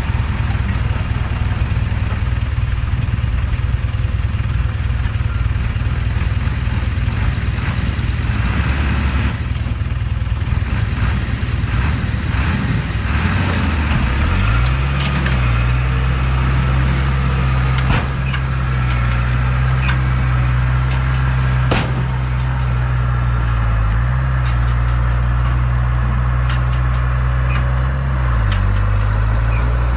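Heavy construction machine's diesel engine running at a low steady speed, then revving up about halfway through and holding the higher speed, with a brief dip and easing back down near the end. Two sharp clanks in between.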